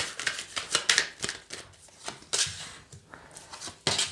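Tarot cards being shuffled by hand: a quick run of crisp flicks and slaps that thins out, with one louder snap of the cards near the end.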